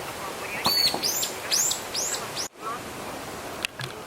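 A bird calling: a run of five sharp, high, down-curving chirps in quick succession, about two a second, over a steady background hiss. A single click follows near the end.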